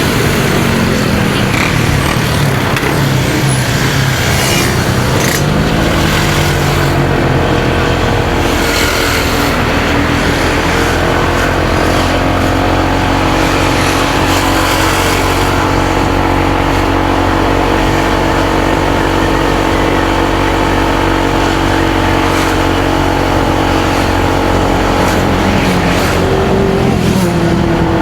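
Motorcycle engine running while riding, with wind and road noise. Its note dips and climbs in the first few seconds, holds steady for a long stretch in the middle, then climbs again near the end.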